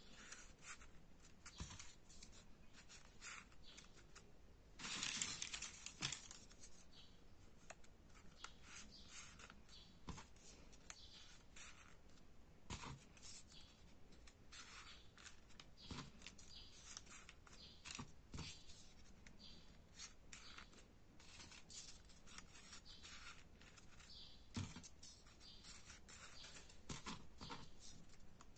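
Faint rustling and crinkling of paper as folded 3D origami units are handled and slotted together, in many small scattered crackles, with a denser rustle about five seconds in.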